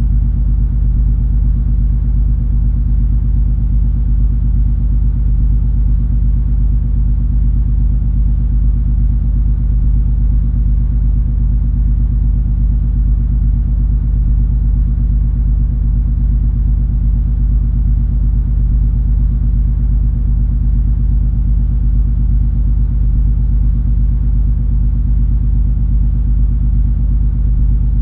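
Cruise ferry's engines running under way, a steady low rumble with a constant deep hum in it.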